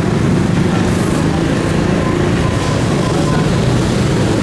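Steady street traffic noise: motor vehicle engines running and passing.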